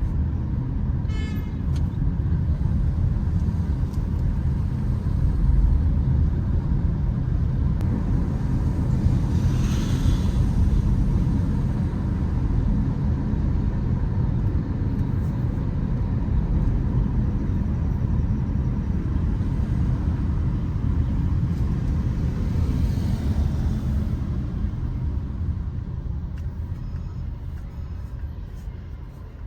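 Steady low rumble of road traffic, with a vehicle swishing past about ten seconds in and another around twenty-three seconds; it fades out near the end.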